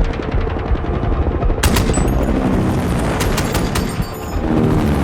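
Film action soundtrack: rapid gunshots in several volleys over a continuous low rumble.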